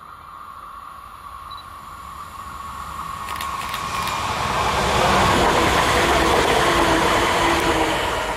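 Electric multiple unit passenger train approaching and passing at speed: the rumble and rush of its wheels on the rails grows steadily, is loudest as it goes by from about five seconds in, with a steady hum over it, and starts to fade at the very end.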